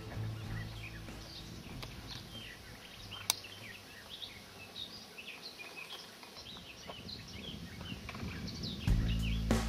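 Woodland songbirds chirping and calling, many short quick notes overlapping throughout. Background music fades out at the start and comes back in near the end, and there is a single sharp click about three seconds in.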